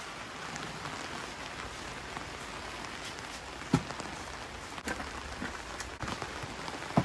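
Steady rain falling, an even hiss, with a few sharp knocks about halfway through and near the end.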